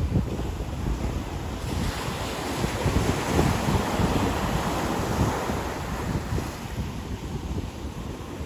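Ocean surf washing onto a beach, a continuous rush that swells about two seconds in and eases off after about six seconds, with wind buffeting the microphone.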